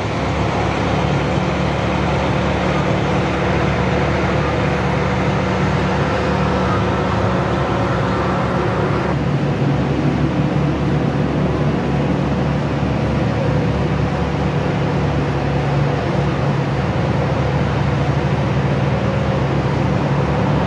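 Chevrolet Corvette C1's V8 engine idling steadily.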